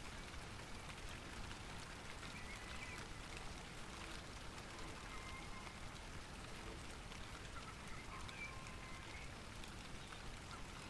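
Light rain falling steadily, with many individual drops ticking, and a few faint short bird calls now and then.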